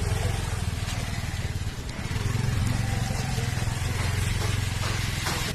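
Motorcycle engine running while riding, with steady wind and road noise; it eases off briefly a little under two seconds in.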